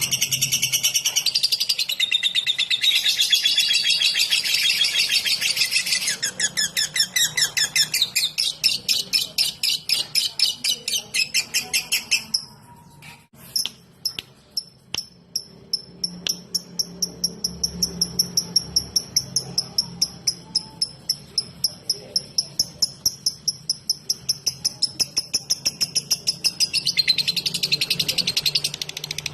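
Lovebird singing 'ngetik': long unbroken strings of very rapid, sharp high chirps, like fast typing. The chatter breaks off for a moment about halfway, then resumes as a steady fast series that grows louder near the end.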